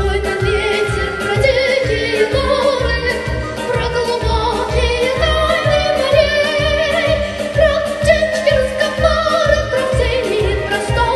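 A young girl singing solo with vibrato over a backing track with a steady beat.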